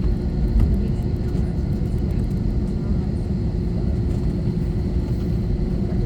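Airbus A321-231 airliner heard from inside the cabin: a steady, loud low rumble from its engines and airframe, with a steady hum and faint rattles.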